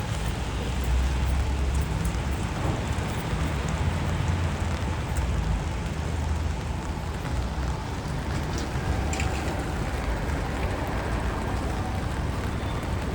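Rainy city street ambience: a steady low rumble of traffic passing on wet pavement under an even hiss of rain.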